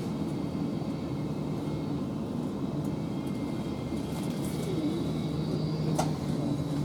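Steady low electric-train hum with a few level tones in it, and a single sharp click about six seconds in.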